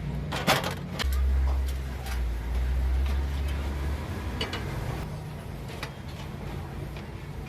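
Low hum with a few sharp clicks and knocks; the hum swells much louder for about three seconds starting about a second in.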